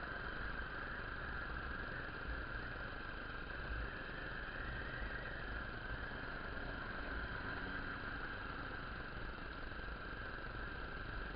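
Motorcycle engine running steadily while riding, a continuous drone with rumble underneath.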